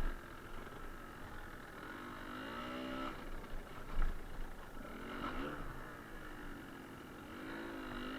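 Suzuki TS125R's two-stroke single-cylinder engine being ridden, its pitch rising and falling three times as the throttle is opened and closed, with a low rumble throughout and a sharp knock about four seconds in.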